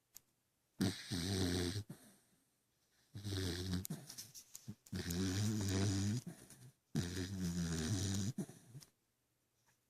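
A sleeping dog snoring and making dream noises: four drawn-out snoring breaths, each about a second long with a wavering pitch, separated by short quiet gaps.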